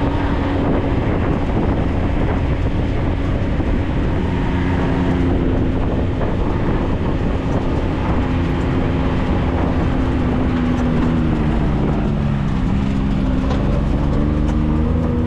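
Engine of a Maverick 4x4 side-by-side running steadily while driving, its pitch dipping and rising a few times about ten to fourteen seconds in as the throttle changes.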